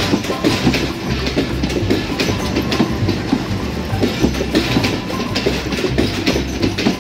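Passenger train coaches rolling past at close range, the wheels clacking over the rail joints in a continuous run of sharp clicks over a steady rumble.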